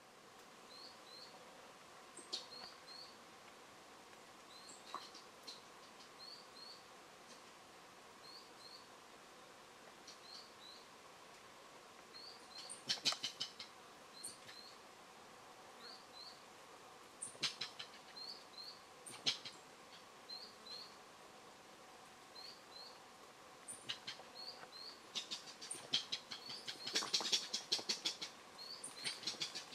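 A bird repeating a short, high doubled chirp every second or two. Bursts of crackly rustling in the foliage come now and then, heaviest near the end.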